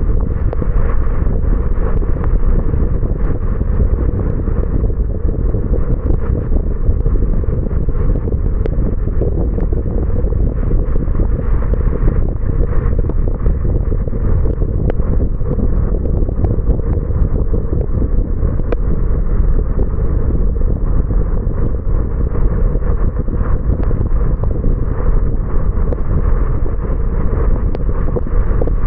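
Steady low rumble of a car on the move: road and tyre noise mixed with wind buffeting the action camera's microphone.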